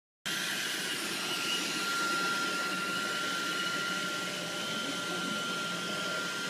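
A steady rushing noise with a thin, steady high whine, like a motor running. It starts abruptly just after the start and stays level.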